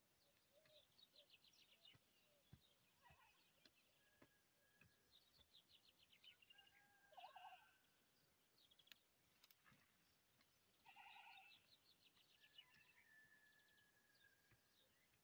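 Faint birdsong: small birds chirping and trilling, with two louder short calls about seven and eleven seconds in. A few soft clicks are scattered through it.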